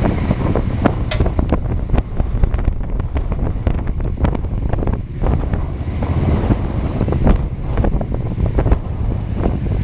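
Waterfall's falling water rushing loudly and steadily, with a heavy low rumble and crackling pops from the spray and air buffeting the microphone.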